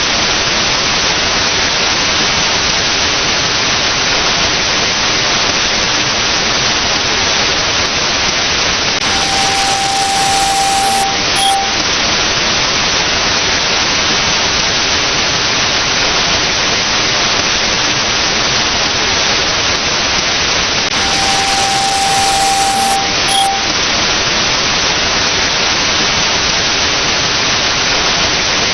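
Loud, steady static hiss like white noise. A beep sounds twice, about 10 and 22 seconds in; each time it is a long tone followed by a short one.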